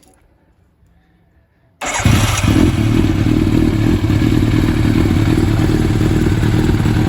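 Yamaha FZR1000 inline-four motorcycle engine with an aftermarket BlackWidow exhaust starting up suddenly about two seconds in and then running steadily.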